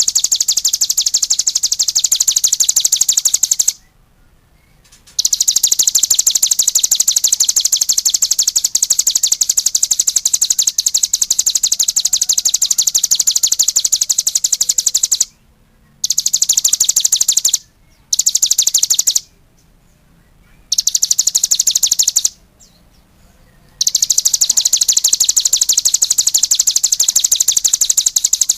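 Small songbird singing a fast, high, even trill in long unbroken bouts, stopping briefly about four seconds in and several times in the second half before starting again.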